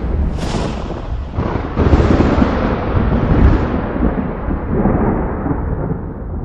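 Thunder: a sharp crack about half a second in, then a loud rolling rumble from about two seconds in that slowly fades.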